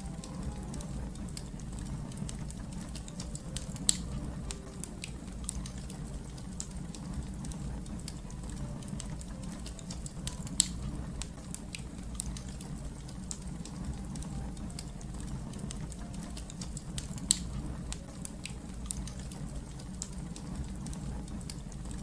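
Wood fire crackling over a steady low rumble, with a scatter of small snaps and three louder pops about 4, 10.5 and 17 seconds in.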